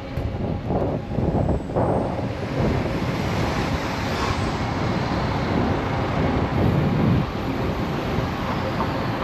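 Street traffic noise mixed with wind rumbling over a bicycle-mounted action camera's microphone as the bike rides along.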